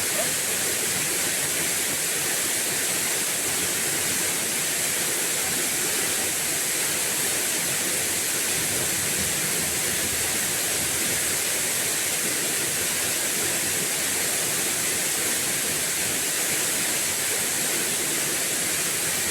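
Steady, even rushing of a waterfall, with no break or change.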